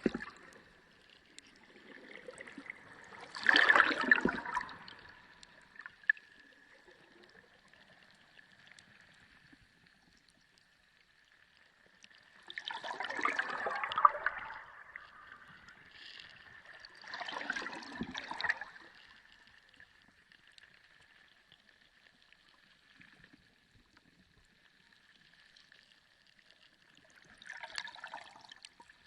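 Sea water heard underwater, swelling in separate surges of swirling, gurgling noise about five times, with quieter stretches between and a faint steady high tone underneath.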